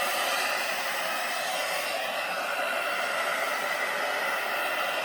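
Conair Infinity Pro travel hair dryer blowing steadily on its low setting, a constant rushing of air with a faint whine.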